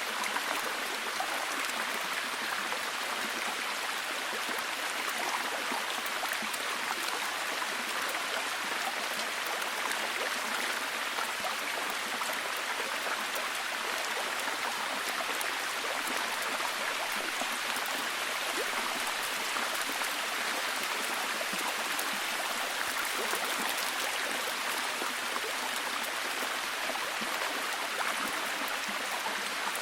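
Steady, heavy rain: a dense, even hiss of falling rain with fine drop patter throughout.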